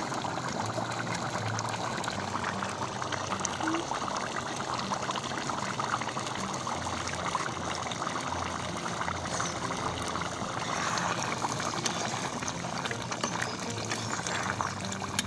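Potato curry in a thin gravy boiling hard in a wide pan, a steady dense bubbling and popping.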